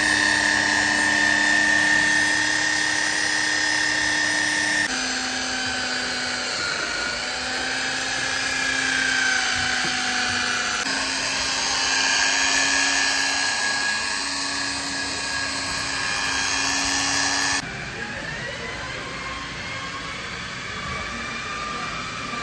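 Workshop power tool motor running with a steady whine. Its pitch and level jump abruptly about five, eleven and eighteen seconds in, and it is quieter over the last few seconds.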